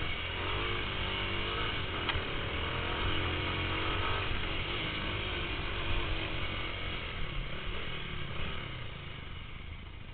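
Motocross bike engine revving up and down as it rides, getting quieter over the last few seconds.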